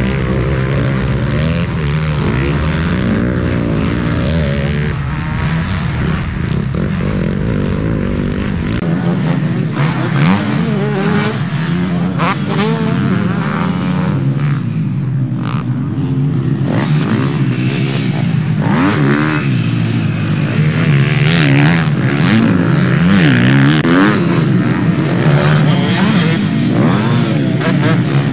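Motocross bike engines racing, their pitch rising and falling again and again as the riders accelerate and shift.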